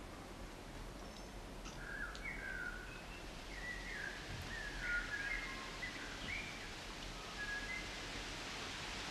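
Faint scattered bird chirps, short sliding notes from about a second and a half in, over a steady hiss that grows slightly louder toward the end.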